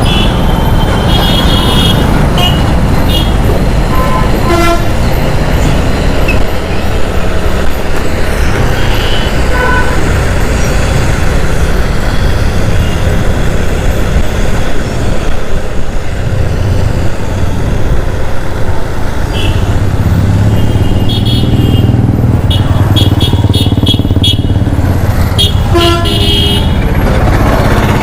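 Riding through town traffic on a motorcycle: a steady rumble of engine and road noise, with vehicle horns honking in short toots again and again, including a quick run of beeps in the second half.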